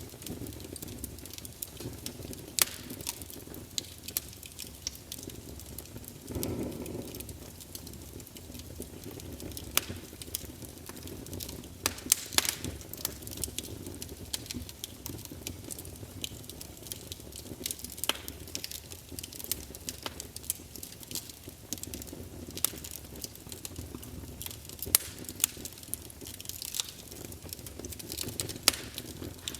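Campfire burning: wood crackling with irregular sharp pops and snaps over a low steady rumble of the flames, with a short swell about six and a half seconds in.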